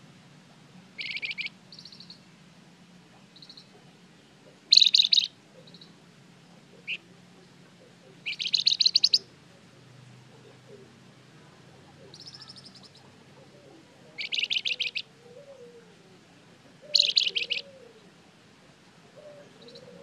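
A Flamboyan songbird singing in short, rapid trilled phrases every second or two, some much louder than others.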